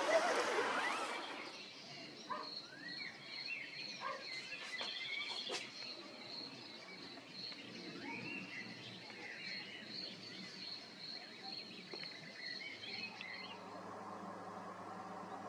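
Birds chirping outdoors, with short rising and falling calls and a high pip repeated about twice a second. A rushing noise fades out in the first second or so, and a low steady hum starts near the end.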